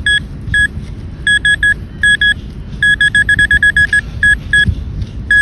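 Handheld metal detector beeping on a buried target in a freshly dug hole. The beeps are short and of one steady pitch, coming singly and in short runs, then in a fast train of about eight a second from about three seconds in.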